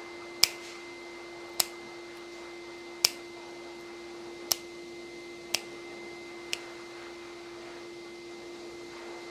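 Dog nail clippers snipping through a dog's nails: six sharp clicks about a second apart, stopping after about seven seconds, over a steady low hum.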